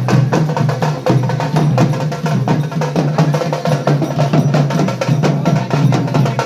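Fast, dense percussion music of drums and sharp clacking strokes, played loudly and without a break.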